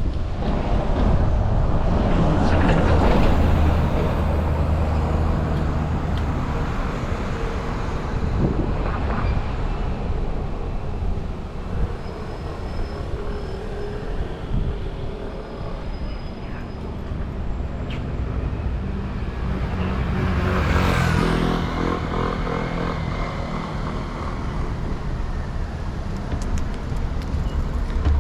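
Road traffic running steadily, with two vehicles passing close by, one near the start and another about two-thirds of the way through.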